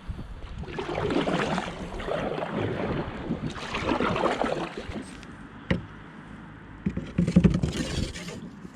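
A kayak being paddled: three swells of splashing water as paddle strokes pull through, and a single sharp knock a little past halfway.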